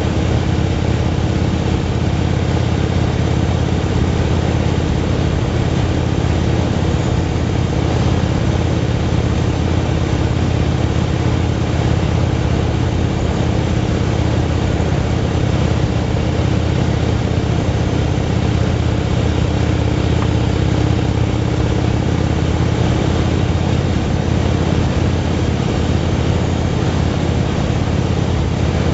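Motorcycle engine running at a steady cruising speed, its even hum unchanging, under a steady rush of noise.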